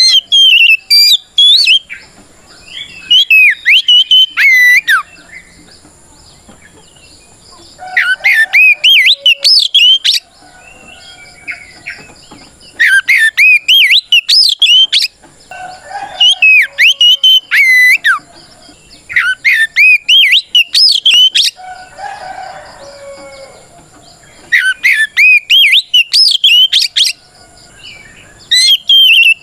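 Oriental magpie-robin singing loud, varied whistled phrases in bursts of about two seconds, repeated every few seconds. This is its combative song calling out a rival.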